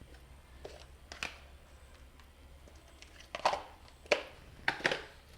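A teaspoon knocking and scraping against containers as cumin seeds are measured out: about half a dozen short, sharp knocks, most of them in the second half.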